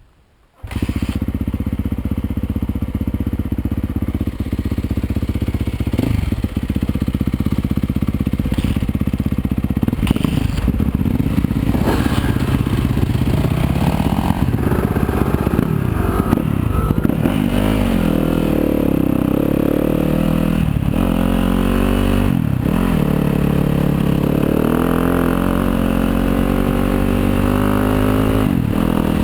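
Yamaha YZ250FX dirt bike's four-stroke single-cylinder engine, running at a steady low speed at first, then revving up and down again and again as the bike is ridden.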